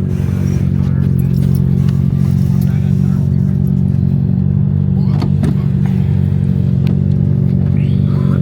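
Car or truck engine and road noise droning steadily at cruising speed, heard from inside the cab.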